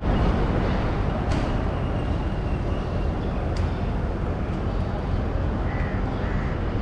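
Steady rumble and noise of a train at a railway station, with a sharp click about a second in and another a little past the middle.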